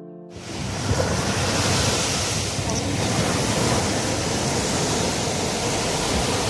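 Ocean surf on a beach, a steady rushing of breaking and washing waves, with wind buffeting the microphone. It starts abruptly about a third of a second in.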